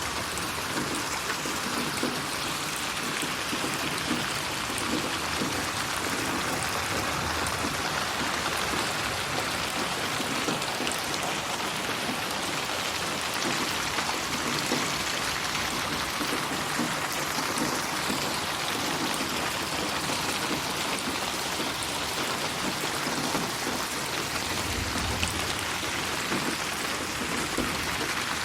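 Steady rain falling, a constant hiss of drops with scattered small ticks, processed as 8D audio so it seems to move around the listener.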